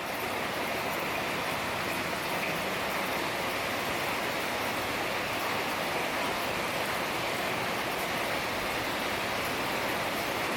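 Heavy rain falling steadily, a dense even hiss with no pauses.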